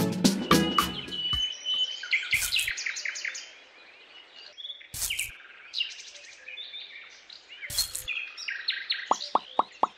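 Birds chirping in short high calls after background music ends about a second in, with a few sharp clicks. Near the end a quick plinking beat starts, about four notes a second.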